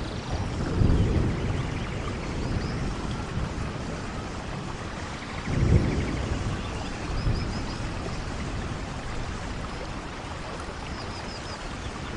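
Steady rainfall, with low rumbles about a second in and, loudest, near the middle, and a few faint high chirps.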